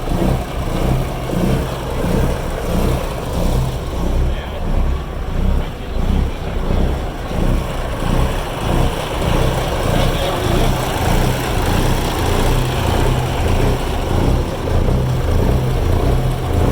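Several Cummins KTA-19 1150-cubic-inch six-cylinder diesel engines idling together with a lope: a deep, steady rumble that rises and falls in an even rhythm.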